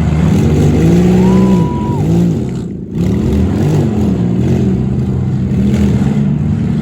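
Several demolition derby cars' V6 engines revving at once, their overlapping notes rising and falling, with a brief dip about three seconds in.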